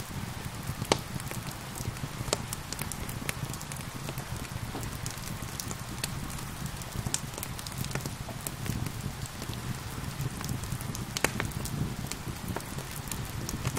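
Wood fire crackling with irregular sharp pops over a steady low rumble, mixed with a steady hiss of rain.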